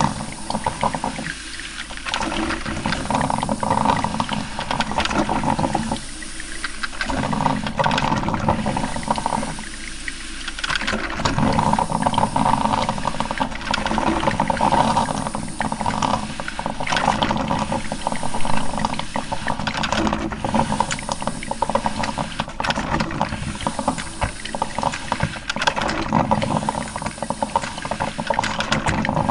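Coffee maker brewing: hot water bubbling and sputtering in uneven surges, with brief lulls about one and a half, six and a half and ten seconds in.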